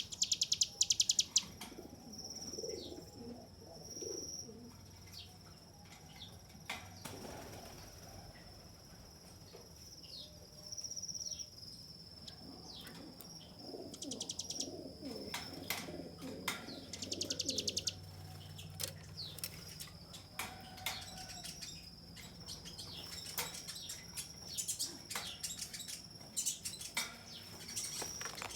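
Bar-winged prinia (ciblek gunung) singing its 'ngebren' song: fast, buzzy high trills of about a second each, repeated a few times between sharp chips. Lower-pitched calls from another bird sound underneath, over a steady high whine.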